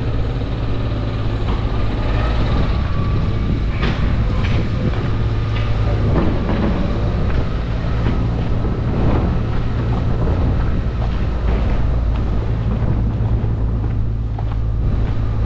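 A large vehicle running close by in city street traffic: a steady low drone with a faint wavering whine over it, and a few scattered knocks.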